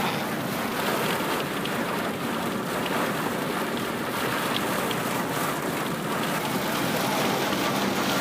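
Storm rain and wind beating on a moving car, heard from inside the cabin as a steady rushing noise over the road noise, with a few light ticks of drops or hailstones.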